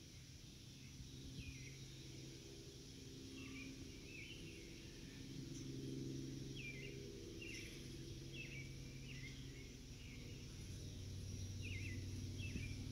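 A bird chirping faintly, short quick downward chirps in small clusters, over a low steady hum.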